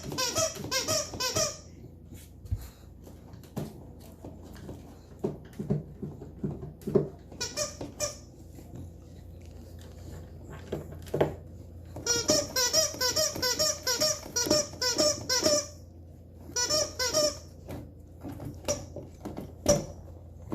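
Dog's rubber squeaky toy squeaking in quick runs of several squeaks a second, the longest run about two thirds of the way in, with scattered knocks and scrapes between the runs.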